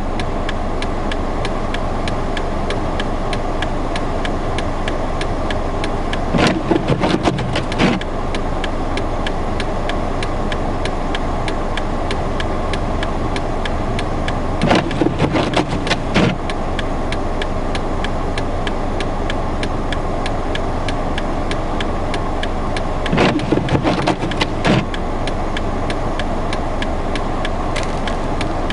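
Steady rushing of blizzard wind gusting around 30 to 45 mph, with three louder rough bursts about eight seconds apart.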